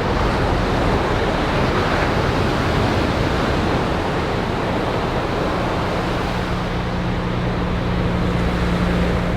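Steady roar of surf and wind on the microphone, with a low steady hum underneath.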